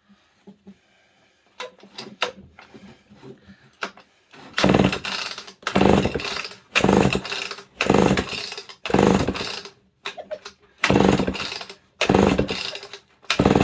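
Homelite XL Automatic two-stroke chainsaw being cranked on its recoil starter: about eight hard pulls, roughly one a second, from about four seconds in. The engine turns over against a compression gauge without starting, which reads just over 150 psi, a sign of a healthy cylinder and rings. Faint handling clicks come before the pulls.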